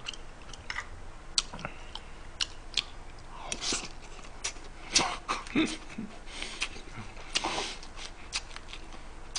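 A man chewing a mouthful of food close to the microphone, with wet mouth clicks and a few louder smacking bursts in the middle.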